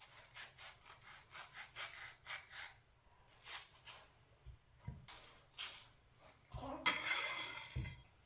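Rhythmic scraping strokes, about three or four a second, then a few scattered strokes and a louder, rougher scrape lasting about a second near the end.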